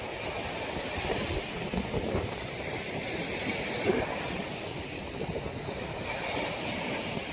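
Storm-force wind howling and buffeting the microphone, a continuous gusty rumble with rushing hiss on top.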